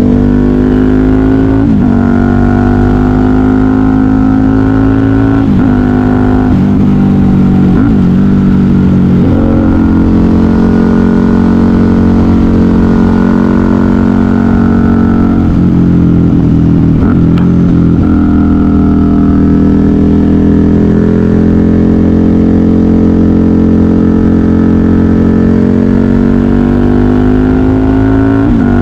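KTM 990 Super Duke R's V-twin engine through a custom exhaust, ridden hard: the revs dip sharply and climb back several times in the first ten seconds and once more just past halfway, then hold a long, slowly rising pull.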